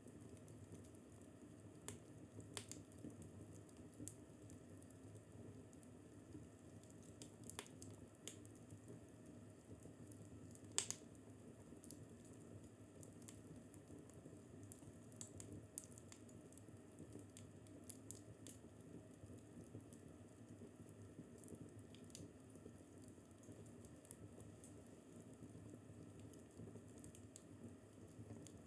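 Wood fire crackling in a fireplace: a low, steady hiss with sharp pops and snaps at irregular intervals, a louder crack about eleven seconds in.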